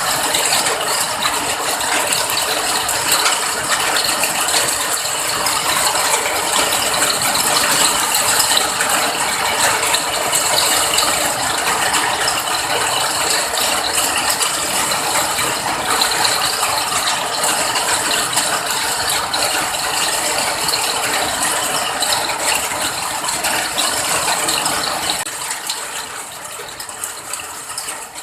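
Heavy rain falling steadily, a dense crackle of countless drops pattering on a hard surface, easing off and getting quieter over the last few seconds.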